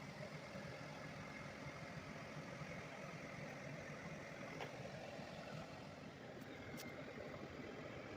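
Steady low hum with a faint hiss, and a couple of faint ticks near the end.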